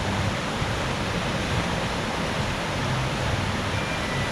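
Steady rushing of water from a water-park slide and its splash pool.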